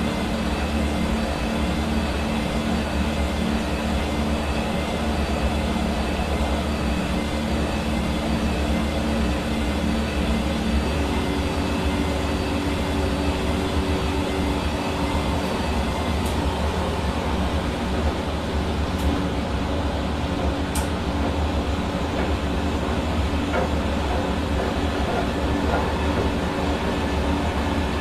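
Hair dryer running steadily: a continuous rush of blown air over the hum of its motor, whose pitch shifts slightly about eleven seconds in.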